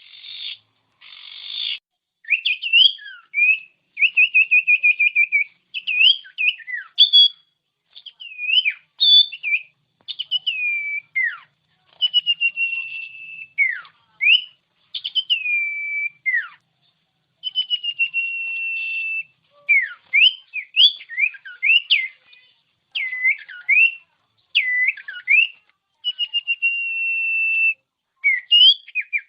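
Common iora (cipow) singing a varied series of clear whistles: long held notes, notes that slide down or sweep up, and quick runs of repeated notes, with short pauses between phrases.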